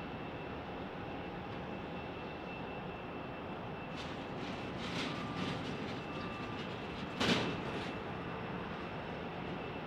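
Steady airport background noise from distant aircraft. About four seconds in, a run of sharp clicks and knocks begins, the loudest a little after seven seconds.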